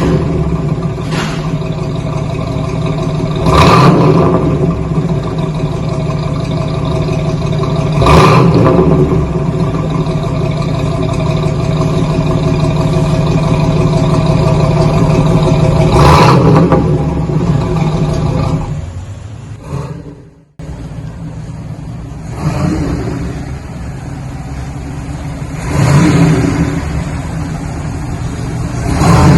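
1968 Cadillac Eldorado's 472 cubic-inch V8 idling through an axle-back dual exhaust with single-chamber V-tube mufflers, the throttle blipped every few seconds to bring up the exhaust rumble. About two-thirds of the way through, the sound fades almost to nothing, then returns abruptly and the revving goes on.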